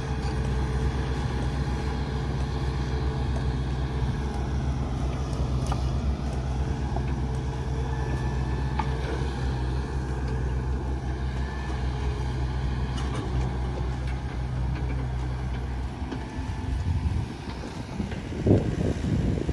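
Steady low rumble of motor-vehicle engines and road noise. The drone falls away about 17 seconds in, and irregular gusts of wind on the microphone follow near the end.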